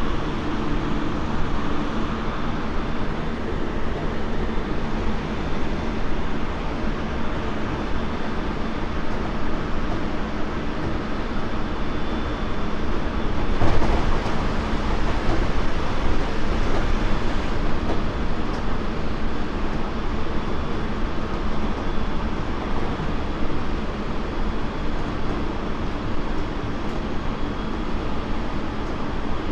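Cabin running noise of a Tobu 30000 series electric train, heard from inside motor car MoHa 32614 with its Hitachi IGBT-VVVF drive: a steady rumble of wheels on rails, with one brief louder jolt about halfway through.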